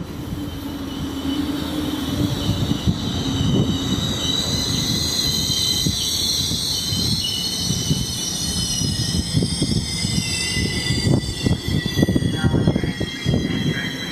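Amtrak Lake Shore Limited passenger train slowing into a station, its steel wheels squealing in several sustained high-pitched tones over the low rumble and irregular clunks of the rolling cars.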